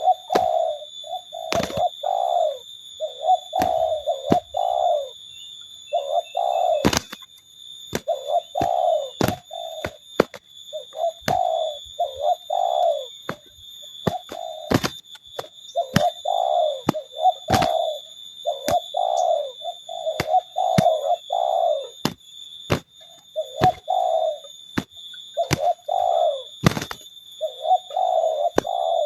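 Spotted doves cooing over and over in short repeated phrases, with frequent sharp clicks and knocks in between. A steady high-pitched whine runs underneath.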